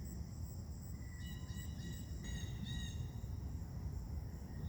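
Faint chorus of insects trilling, several steady high-pitched tones with a few extra tones starting and stopping about a second in, over a low rumble of wind or handling.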